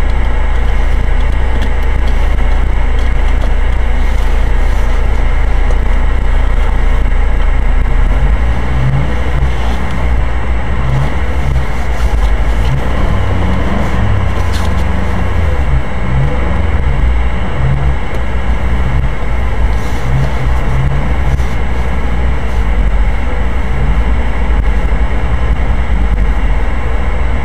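GAZ-31105 Volga's engine running, heard inside the car through a dashcam as it moves off slowly: a steady low rumble, with an engine note that comes and goes from about eight seconds in.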